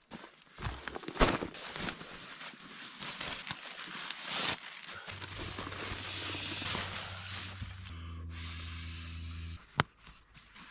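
Camp gear being handled during tent setup: rustling and knocking, then a steady low mechanical hum with an airy hiss for several seconds that cuts off, followed by one sharp click near the end.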